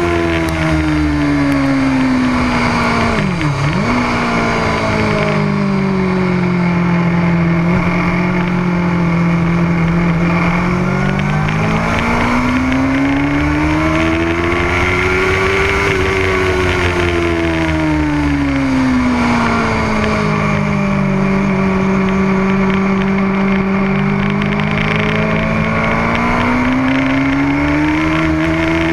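Motorcycle engine running hard on a race track, its pitch falling over the first few seconds with a brief sharp dip, then rising to a peak midway, dropping low again and climbing near the end as the bike slows for corners and speeds up out of them. A steady rushing noise runs underneath.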